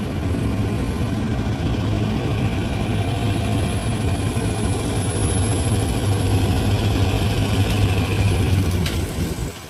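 Large crawler bulldozer's diesel engine running steadily under load, dipping briefly near the end.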